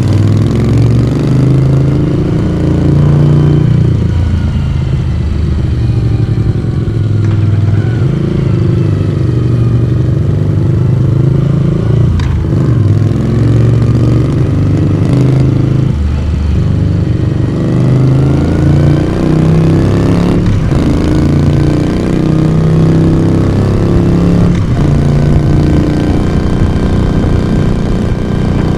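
1982 Moto Guzzi V35's air-cooled transverse V-twin engine and exhaust running under way. Its note falls and rises several times as the rider eases off and opens the throttle again, and it breaks off briefly a few times.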